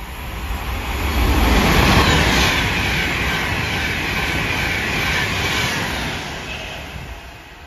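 Avanti West Coast Pendolino electric express passing through the station at speed without stopping: wheel rumble and a rush of air build to a peak about two seconds in, hold, then fade as the train draws away near the end.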